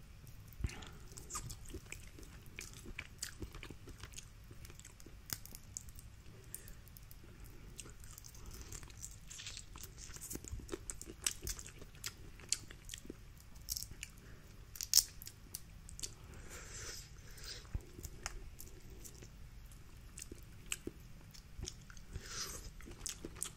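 Close-miked eating of a seafood boil: quiet chewing and biting, with many scattered small clicks and crackles from handling the shellfish.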